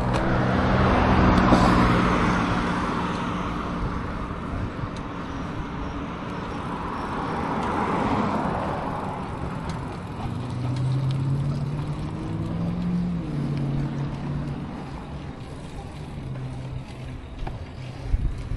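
Road traffic: cars passing on the street, the sound swelling and fading twice (about a second in and around eight seconds), with the low hum of engines.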